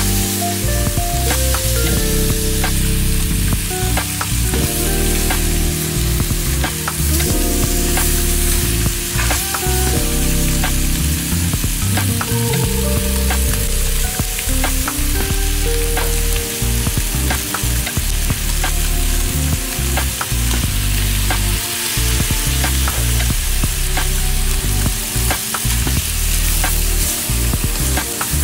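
Chicken pieces sizzling in oil in a metal wok, stirred with a silicone spatula: a steady frying hiss with scattered scrapes and clicks as the pieces are turned.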